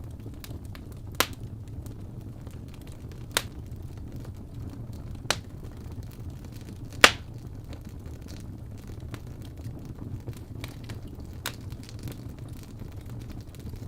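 Wood fire crackling in a fireplace: a steady low rumble of burning with a handful of sharp pops, the loudest about seven seconds in.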